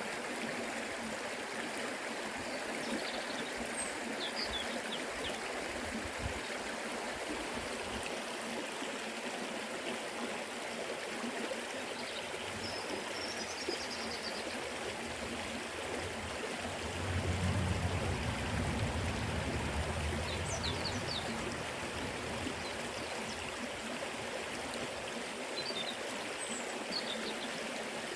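River flowing: a steady rush of running water, swelling louder with a low rumble for a few seconds past the middle, with a few faint high chirps over it.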